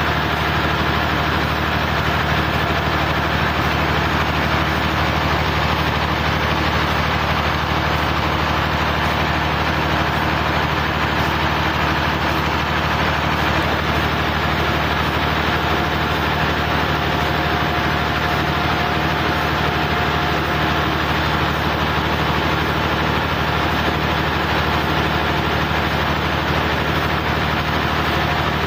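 Sawmill's engine running steadily at an unchanging speed, a constant low hum with a noisy upper edge.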